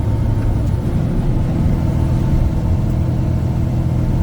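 Semi-truck under way on the highway: a steady low engine drone with road noise, holding an even level.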